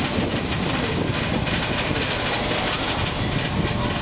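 Steady rumbling noise of a moving vehicle, with no break or change.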